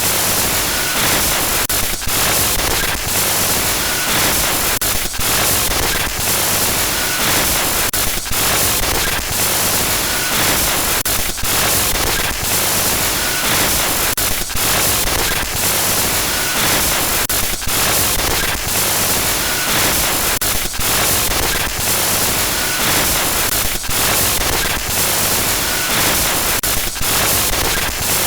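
Loud, continuous glitch static: a harsh hiss across the whole range, broken by frequent brief stutters and dropouts.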